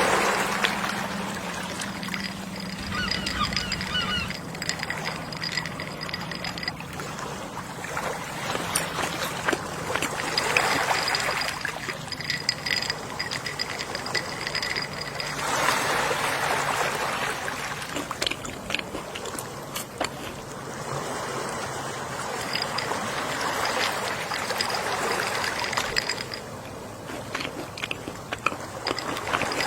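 Gentle sea waves washing in and out in slow swells every several seconds, with seagulls calling now and then.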